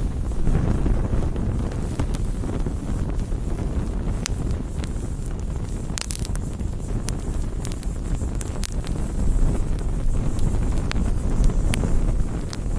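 Wood campfire burning: a steady low rushing of the flames with scattered sharp crackles and pops.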